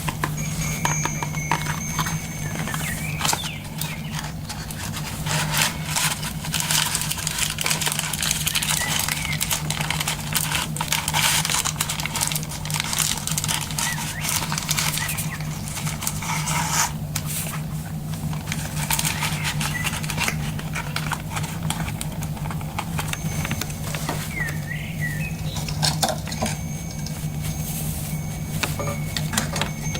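Close-up handling sounds while incense is being lit: dense crackling and clicking with some rustling, over a steady low hum. A few short bird chirps come in near the end.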